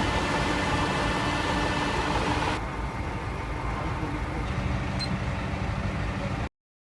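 Car driving as heard by a dashcam: steady engine hum and road noise. The sound changes abruptly about two and a half seconds in, then cuts off to silence near the end.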